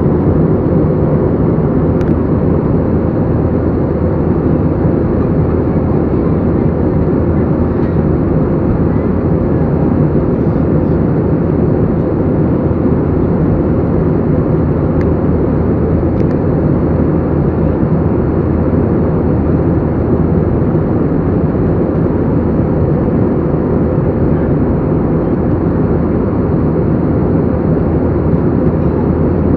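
Airliner cabin noise in flight: a steady, unbroken rush of engine and airflow noise, mostly low-pitched.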